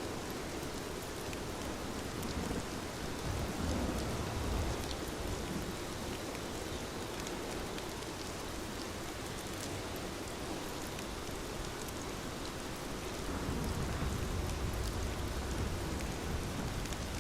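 Steady rain falling and pattering on a window, with scattered drop ticks. A low rumble swells up twice, about three seconds in and again near the end.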